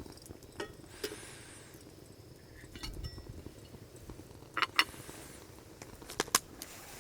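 Tableware clinking: a few sharp clinks and taps, the loudest pair a little past the middle and another quick pair near the end.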